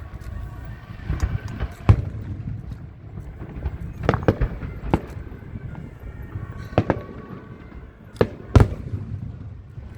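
Fireworks going off in a string of sharp bangs at irregular intervals over a low rumble, the loudest about two seconds in and near the end.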